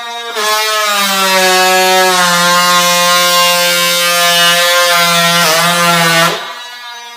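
A handheld electric power tool running, then much louder and harsher with its pitch sagging for about six seconds as it cuts under load, before easing back to a lighter run near the end.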